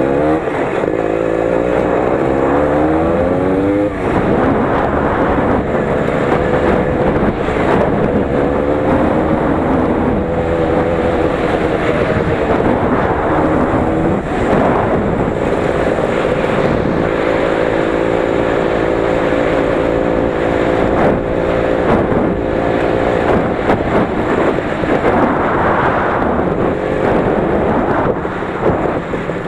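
Lider 3.221 20 hp motorcycle engine running under load while riding. The revs climb, drop sharply about four seconds in, then hold fairly steady with small rises and falls.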